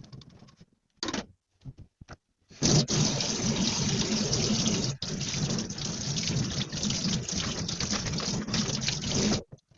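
Kitchen tap running into a sink, turned on a little over two seconds in and shut off abruptly near the end. A few short knocks come before it.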